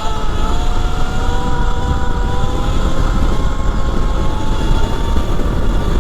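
E Ride Pro SS 3.0 electric motorbike's motor whining under way, its pitch climbing slowly and then holding steady, over heavy wind rumble on the microphone.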